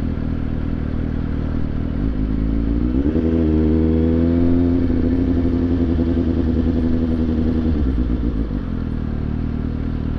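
Suzuki GSX-S750's inline-four engine running; about two seconds in the revs climb, hold high for several seconds, then fall back about eight and a half seconds in to a steady lower note.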